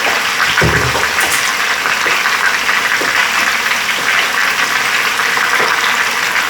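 Jerk-marinated chicken pieces searing in hot oil in a skillet: a steady, loud sizzle and crackle. A soft low thud comes just over half a second in.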